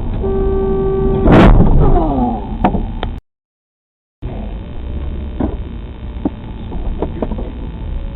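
Vehicle collision caught on a dash cam. A steady pitched tone sounds for about a second, then a loud crash impact with ringing that falls in pitch, and a couple of sharp clicks. After a one-second gap of silence, steady driving noise returns with a few short clicks.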